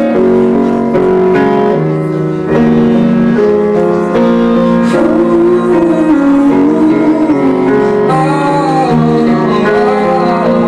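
Piano playing slow sustained chords, with a voice coming in singing long, wavering notes about halfway through.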